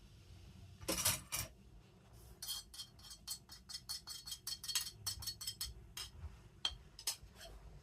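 Metal spoon clinking against a cooking pot: two louder knocks about a second in, then a run of quick light clinks, about four a second.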